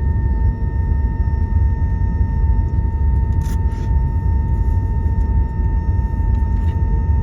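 Airbus A321 cabin noise on the ground after landing: a steady low rumble with a constant high whine from the aircraft's running engines or systems. There are two brief rustles or clicks, one about halfway through and one near the end.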